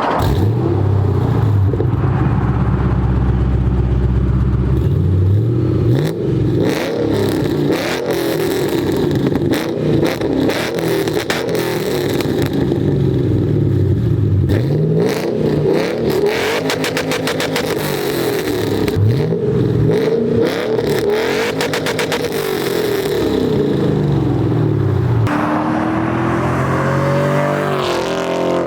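Supercharged Ford Mustang GT 4.6-litre three-valve V8 through a Borla S-Type exhaust, revving and accelerating over and over, its pitch climbing and falling with each rev. There are stretches of rapid crackle in places.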